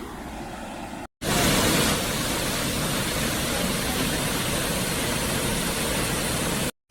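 Waterfall rushing: a steady, dense hiss of falling water. It starts suddenly about a second in after a short gap of silence and cuts off just before the end.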